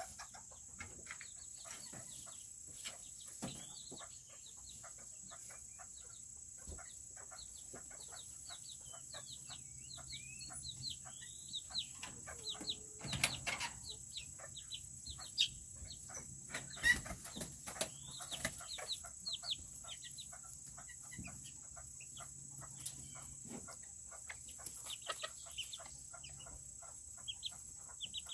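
Serama bantam chickens peeping and clucking: a steady stream of short, high, falling chirps mixed with soft clucks and small taps, with a longer, lower call about halfway through.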